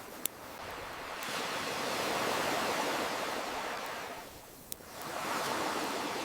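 Ocean waves surging in and washing back: one swell builds and fades, then another rises near the end. Two sharp single pops of a crackling campfire, one just after the start and one shortly before the second swell.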